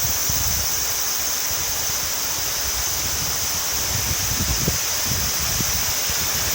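Steady rushing of a fast-flowing river in flood, running high after heavy typhoon rain.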